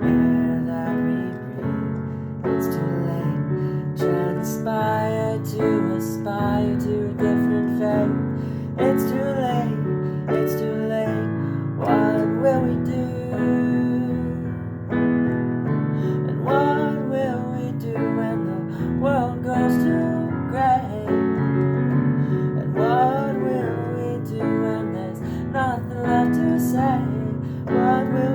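An original song played on piano or keyboard: held chords underneath, with a higher melody line above whose notes slide and bend between pitches.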